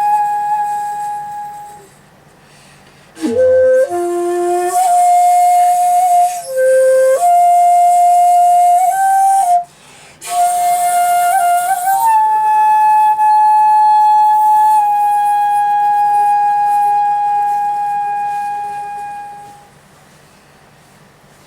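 Solo shakuhachi (Japanese end-blown bamboo flute) playing slow, breathy phrases. A held note fades out, and after a pause of about a second comes a run of several notes stepping up and down with airy attacks and a brief breath break. It ends on one long held note that fades away near the end.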